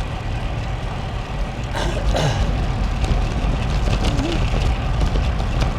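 Road traffic going by while riding a bicycle, over a steady low rumble of wind on the microphone, with one vehicle passing more closely about two seconds in.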